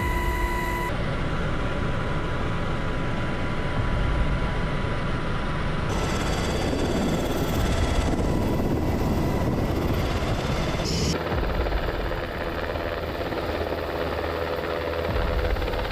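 Helicopter in flight: steady rotor and turbine noise with a low rumble, changing abruptly about one, six and eleven seconds in.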